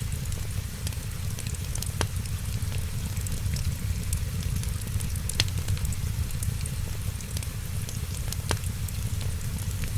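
Wood fire crackling in a fireplace: a steady low rumble and a hiss of fine crackles, with three sharp pops about three seconds apart.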